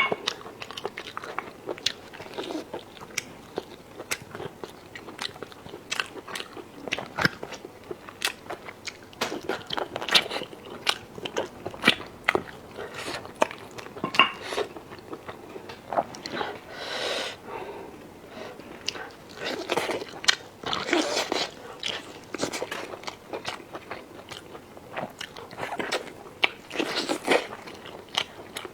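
A person eating close to the microphone: chewing and biting food, with many short mouth clicks and crunches and a few longer noisy stretches.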